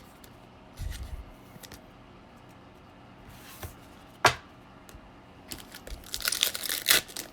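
Foil trading-card pack wrapper crinkling and tearing as it is ripped open, in the last second or two, after a single sharp tap about four seconds in.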